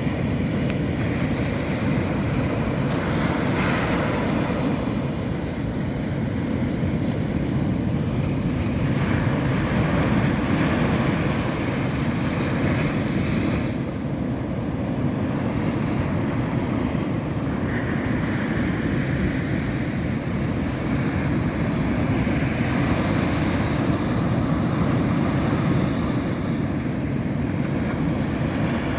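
Ocean surf breaking on a beach: a steady low rumble of waves, with a higher hiss that swells and fades several times as waves break. Wind is buffeting the microphone.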